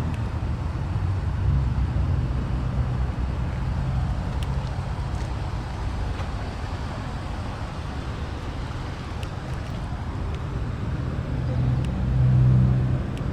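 Citroën C-Crosser's engine idling steadily, heard from outside the car, briefly louder near the end.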